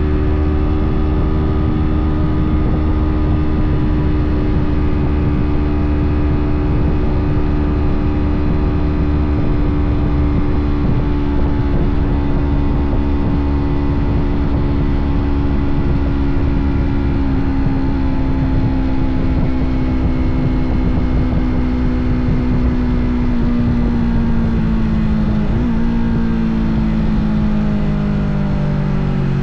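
Yamaha parallel-twin sport-bike engine running under way at steady high revs, its note slowly easing lower, with brief breaks about 25 seconds in and again near the end. Heavy wind rumble on the microphone underneath.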